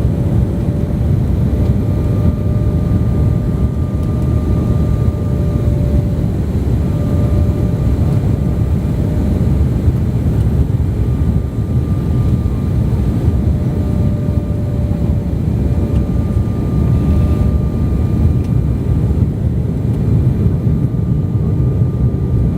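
Airliner cabin noise in flight: a steady, deep rumble of engines and rushing air, with a faint steady whine that fades in and out every few seconds.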